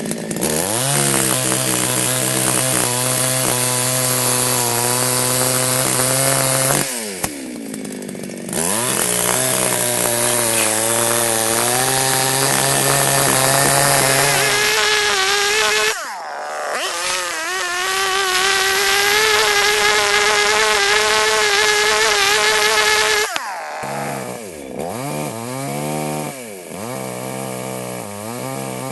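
Baus two-stroke petrol chainsaw cutting logs at full throttle in three long stretches; between them the revs drop away and climb again, and near the end it is revved in several short bursts.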